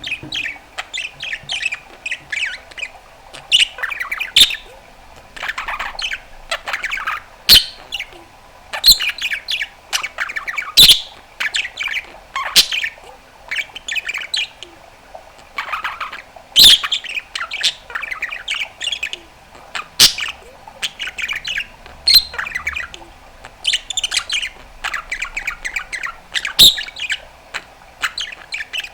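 Budgerigar warbling in a continuous run of fast chirps, trills and squawks, broken by a few sharp pops or clicks.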